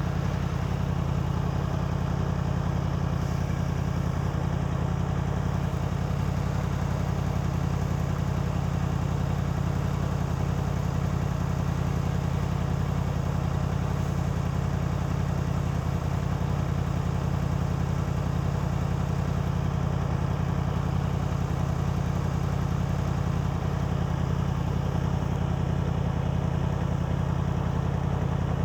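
Yamaha MT-10's crossplane inline-four engine idling at a steady, unchanging pitch.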